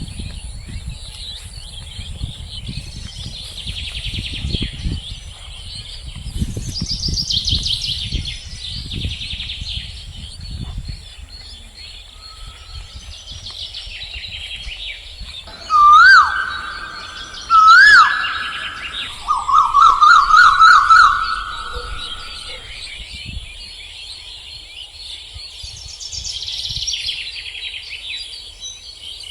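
A chorus of small birds chirping and twittering. Past the middle come three loud, steady, siren-like tones: two short ones, each opening with a quick pitch flick, then a longer one that warbles rapidly.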